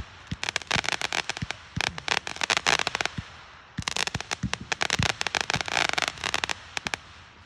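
Consumer fireworks crackling: rapid sharp pops in two dense volleys, with a break of about half a second near the middle, fading out near the end.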